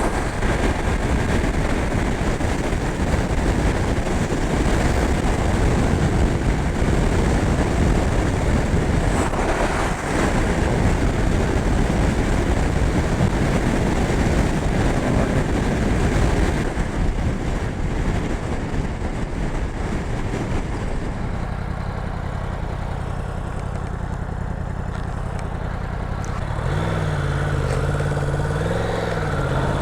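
Yamaha R1 sport bike's crossplane inline-four being ridden, with heavy wind rush over the engine at speed for the first half. The wind then dies away as the bike slows, and near the end the engine note comes through plainly, rising and falling a little with the throttle.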